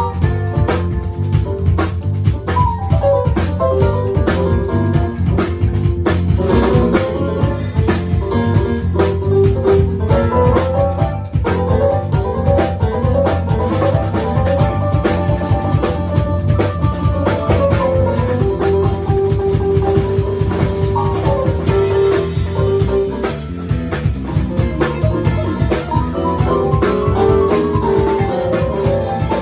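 A band playing music live: a steady drum beat under a melody of held and stepping notes.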